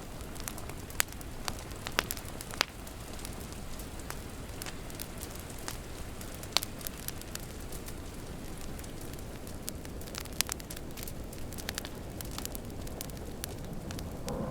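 Wood fire crackling, with sharp pops at irregular intervals, over a steady hiss of rain.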